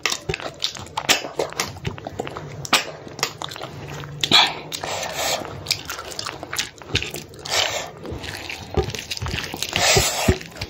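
Close-up eating sounds: chewing a mouthful of rice, fish and snails, with wet lip smacks and many short clicks and brief noisy sucks.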